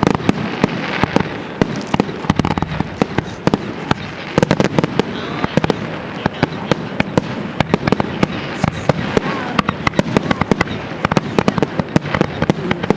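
Aerial fireworks display going off in a dense, continuous string of bangs and crackles, several every second, with no pause.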